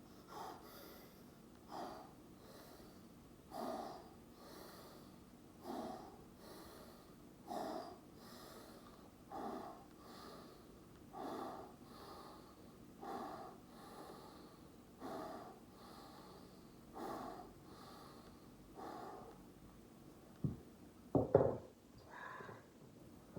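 A man's breathing during exercise: steady, rhythmic breaths, about one every two seconds. Near the end come two sharper, louder sounds.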